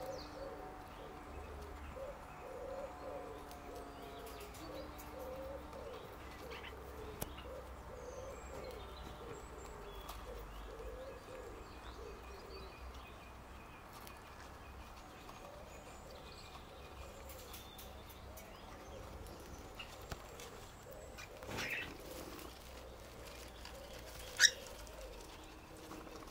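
Birds in an aviary calling: a long run of soft, repeated low cooing calls, fading out midway and returning, with a brief rustle and then one sharp chirp a couple of seconds before the end.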